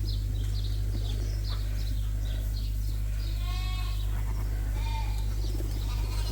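Lambs bleating in a sheep barn: one quavering call about three seconds in and a shorter one near five seconds, over a steady low hum.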